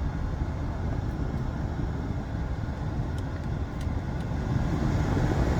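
Climate-control blower of a Mercedes-Benz SL600 pushing air through the cabin vents: a steady rush of air that grows louder near the end as the fan speed is turned up.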